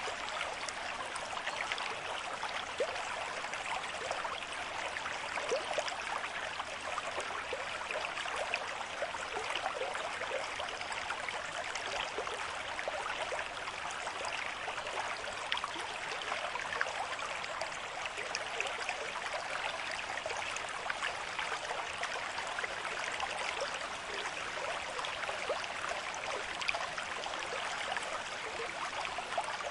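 Stream of moderate flow running over stones: a steady bright rush of water, thick with small splashes and gurgles.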